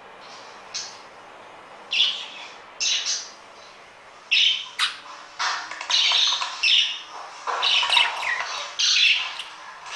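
Young budgerigars squawking and chattering in short, harsh calls, a few apart at first and then coming almost without pause from about halfway through.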